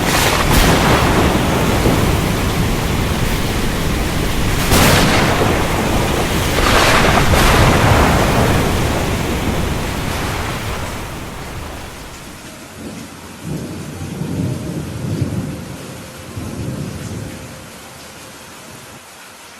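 Heavy rain with thunder: several sharp cracks in the first eight seconds. The rain then fades out, and low thunder rumbles follow about two-thirds of the way through before dying down near the end.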